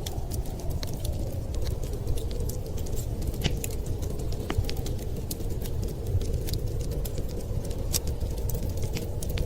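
Wood fire crackling, with irregular sharp pops and snaps, over a low steady rumble of wind.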